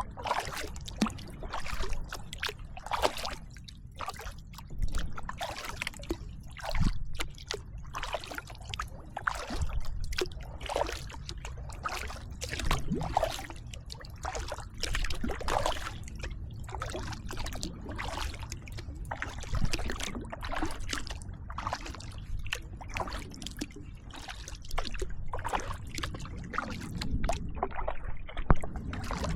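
Kayak paddle strokes splashing and dripping in the water, roughly one stroke a second, over a steady low rumble.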